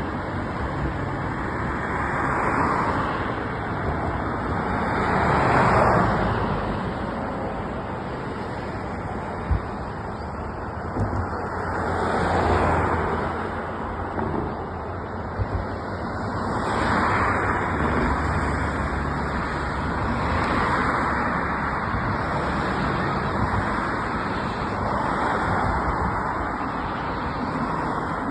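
Traffic on a wet road in the rain: a steady hiss, with the swish of vehicles passing every few seconds, each swelling and fading.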